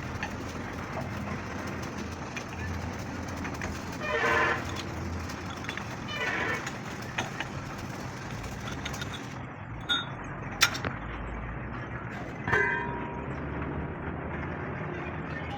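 Workshop ambience: a steady background of traffic and machinery noise with a couple of short bursts of voices, and a few sharp metal clinks, the loudest about ten and a half seconds in, one near the end ringing briefly.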